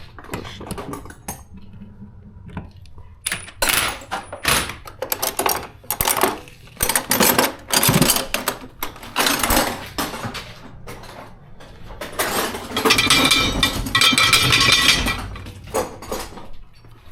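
Metal parts and tools clinking and knocking against each other in a series of sharp separate hits, with a denser stretch of clatter near the end.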